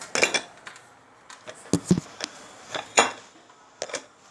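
A few scattered light knocks and clinks of hard objects, like dishes or a container being handled.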